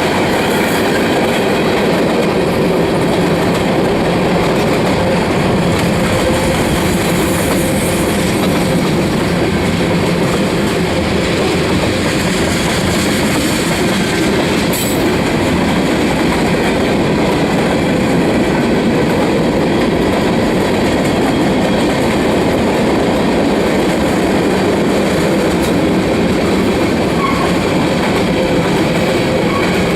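Freight cars of a Union Pacific manifest train rolling past close by: a loud, steady rumble and rattle of steel wheels on the rails, with a rhythmic clickety-clack over the rail joints.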